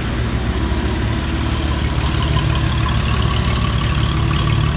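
Cadillac CT4-V Blackwing's twin-turbo 3.6-litre V6 idling steadily.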